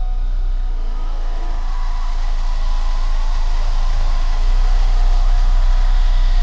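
Deep, loud, steady bass from a car audio subwoofer system, growing louder about four seconds in, over a haze of outdoor noise.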